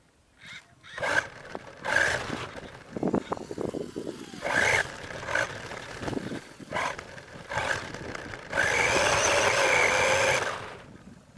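R/C monster truck driving in short bursts of throttle, its motor whining over the scrape of its tyres on the ground, then a longer, steadier full-throttle run near the end that dies away.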